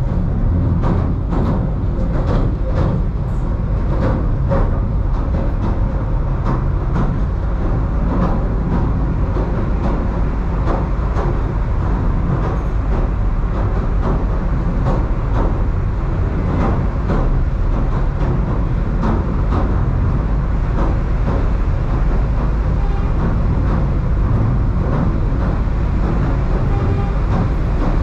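Southend Pier Railway train running along its track, heard from inside the carriage: a steady low rumble with irregular wheel clicks and rattles, which come thickest in the first few seconds.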